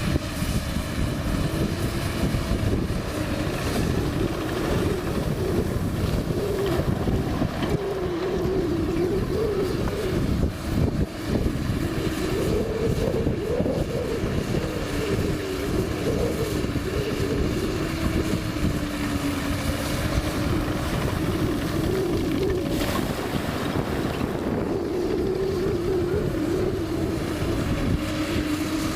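Komatsu PC200 hydraulic excavator's diesel engine running under working load, its note wavering up and down as the load changes.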